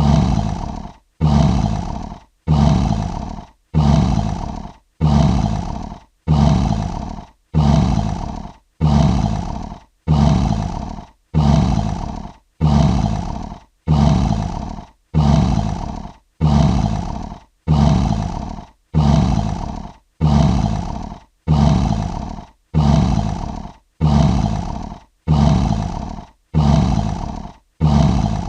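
Lion roar sound effect: the same short roar, each starting loud and fading over about a second, repeated in an even loop about every 1.2 seconds with short silences between.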